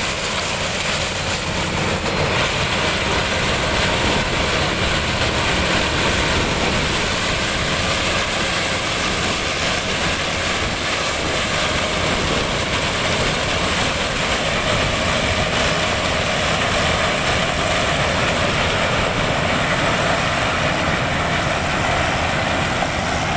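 Heavy diesel engine of a land-clearing machine running steadily while it works the field.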